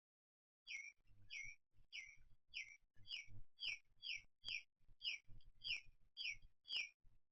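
A bird calling a steady series of two-part chirps, a short high note then a lower sweeping one, about two a second.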